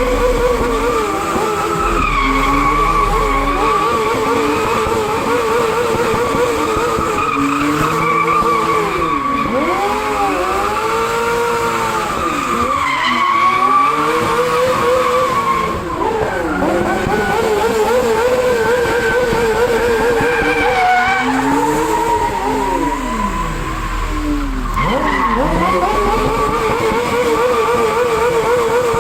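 Cars drifting: tyres squealing in long, wavering screeches that carry on without a break, while engine notes swing down and up in pitch a few times.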